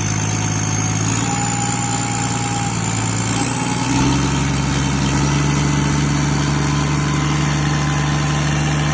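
Freshly overhauled Volvo D9 diesel engine in a Volvo loader running, its speed stepping up a little about a second in and again about four seconds in, with a thin high whine climbing slowly above the engine note.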